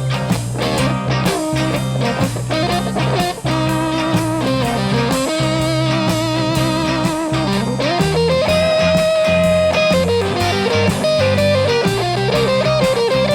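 Live rock band playing an instrumental break: an electric lead guitar plays a solo line with bent, wavering held notes over strummed rhythm guitars, bass and drums.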